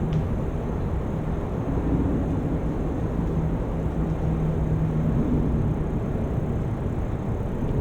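Steady road traffic noise from vehicles driving past on a multi-lane bridge, with low rumble. A motor drone comes up for a couple of seconds around the middle.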